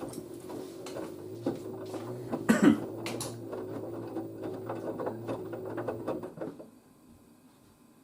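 LG DirectDrive washer dryer's drum turning a load of wet towels: the direct-drive motor hums steadily under the knocks of the tumbling towels, with a louder thud about two and a half seconds in, and the drum stops near the end. The machine is trying to balance a load that the owner finds unbalanced and reluctant to spin.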